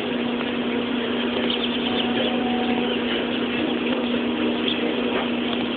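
A steady mechanical drone: a motor running at constant speed with an even hum and no change in pitch or level.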